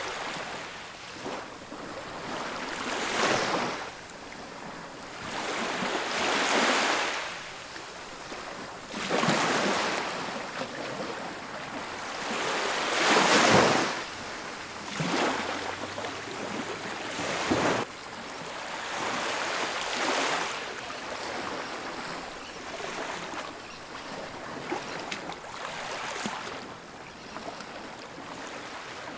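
Ocean waves breaking on a beach, surf swelling and washing back every few seconds, with the loudest break about halfway through.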